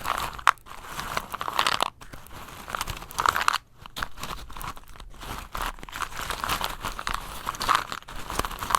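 Close-up crinkling and crunching: a dense crackle of many small clicks, broken by brief pauses about two seconds in and again near three and a half seconds.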